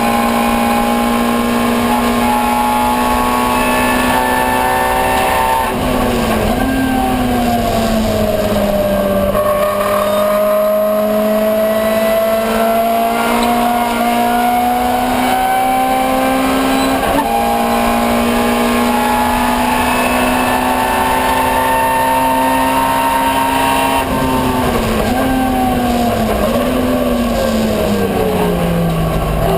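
Ford Escort 1300GT race car's four-cylinder engine under racing load. It is held at high revs, then drops in steps with short throttle blips as the driver brakes and downshifts, about six seconds in and again near the end. In between, the revs climb slowly under acceleration.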